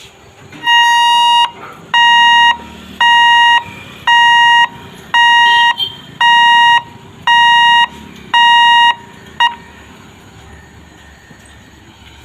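An electronic warning beeper sounding a steady high beep eight times, about once a second, each beep just over half a second long, followed by one short final blip.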